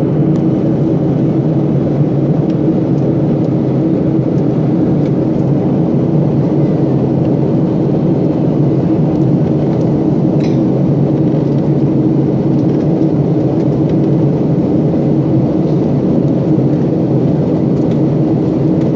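Steady, unchanging airliner engine drone as heard inside the cabin, with a low hum running under it.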